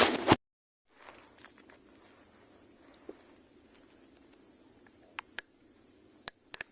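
Steady high-pitched trilling of a night insect chorus (crickets). It opens with a brief loud burst of noise that cuts off abruptly into half a second of silence, and a few sharp clicks come near the end.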